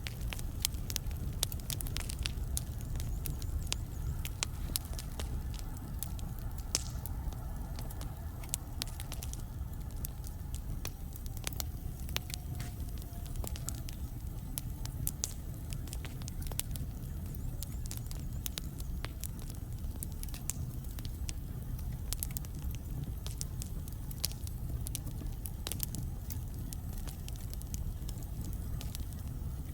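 Wood fire burning in a fireplace: frequent sharp crackles and pops of burning logs over a steady low rumble, with a faint wavering whistle for several seconds in the middle.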